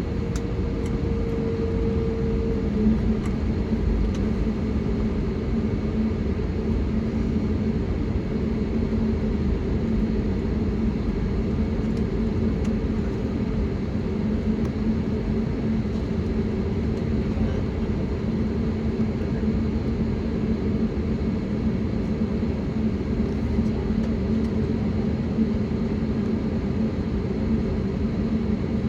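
Steady cabin noise of an Airbus A320neo with its CFM LEAP-1A engines running, a low rumble with a steady hum in it. A higher tone in the hum stops about three seconds in.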